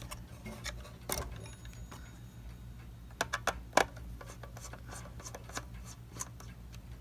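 Light metallic clicks and rubbing from handling the pendulum clip at the back of a Seth Thomas clock movement, a few scattered clicks with the sharpest just before four seconds in.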